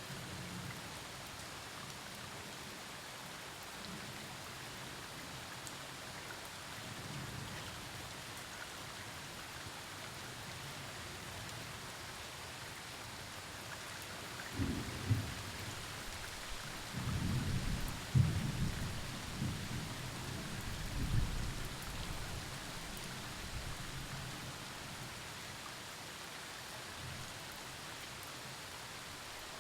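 Thunderstorm: steady rain falling, with a low roll of thunder. The thunder comes in about halfway through, is loudest a few seconds later in a couple of sharp peaks, and dies back to the rain hiss soon after.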